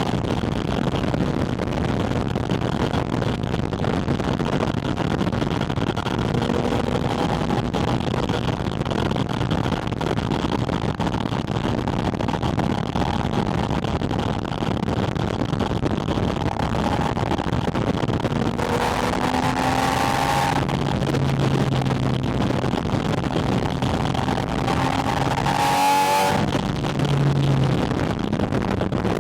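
Porsche 718 Spyder RS's naturally aspirated flat-six engine running on the road, heard through a microphone at the air intake with heavy wind rush. The engine pitch climbs about two-thirds of the way in and drops sharply near the end.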